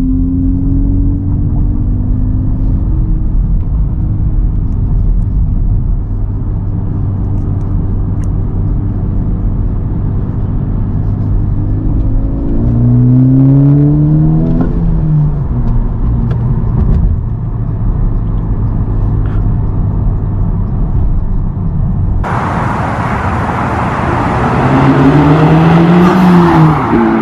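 Honda Civic Type R's turbocharged four-cylinder with an AWE Touring exhaust, driving: a steady drone at cruise, then the engine note rises as it accelerates about halfway through and drops off sharply. Late on, the sound turns abruptly hissier and noisier, and the engine note rises and falls once more.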